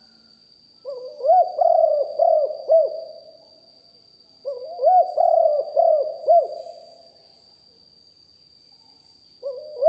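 Spotted dove cooing: two full phrases of several arched hooting notes each, a few seconds apart, with a third phrase starting near the end. A faint steady high whine runs behind.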